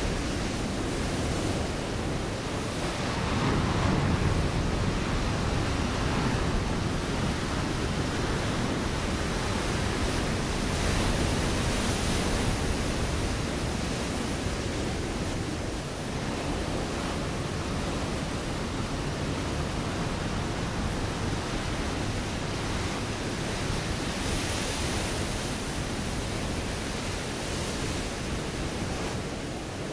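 Ocean waves breaking on a rocky shore: a continuous wash of surf that swells a little several times, about 4, 12 and 25 seconds in.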